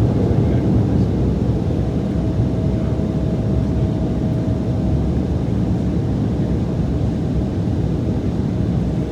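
Steady jet engine and airflow noise heard inside the cabin of an Embraer E175 airliner in flight shortly after takeoff, from its two GE CF34-8E turbofans, with a faint steady whine.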